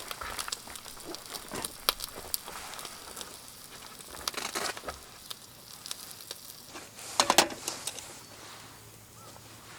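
Campfire wood crackling and popping in irregular, scattered snaps, with a louder cluster of crackles about seven seconds in.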